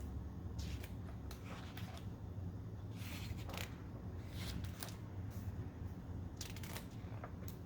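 Soft, scattered paper rustles and light clicks of a picture book being handled and its pages turned, over a low steady room hum.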